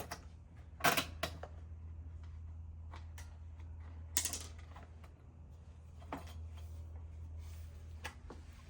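Scattered light clicks and brief scrapes of hand work on small metal mower parts as a nut is started onto its bolt, over a steady low hum.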